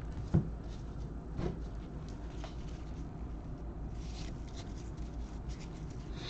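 Trading cards being handled: faint scattered ticks and light rustles as cards are slid and flipped, with one soft knock about half a second in, over a low steady hum.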